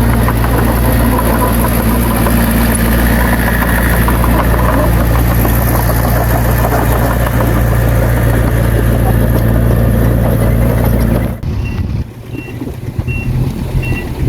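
A heavy-equipment diesel engine running steadily at close range, then cut off abruptly about eleven seconds in. About a second later a reversing alarm starts beeping, roughly one and a half beeps a second, over a quieter engine.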